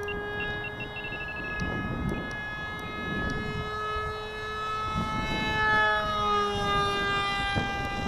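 Motor and propeller of a 60-inch RC paper airplane in flight, a steady whine whose pitch drifts slowly up and down as the plane flies around.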